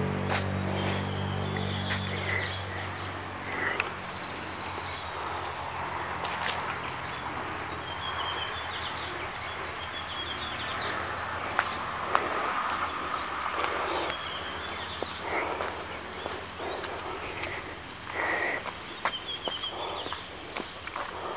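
Steady, shrill chorus of insects droning without a break in summer woodland. A passing vehicle's hum fades out in the first couple of seconds, and there are a few faint chirps and rustles.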